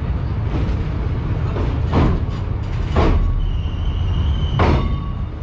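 Express train running over the old steel Pamban rail bridge, heard from aboard the coach: a steady low rumble with sharp metallic clanks from the wheels about once a second, each ringing briefly. A faint high squeal joins for about a second in the second half.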